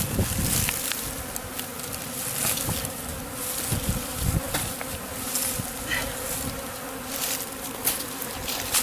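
Swarm of honeybees buzzing close by, a steady dense hum, with a few scattered light clicks and low knocks from handling.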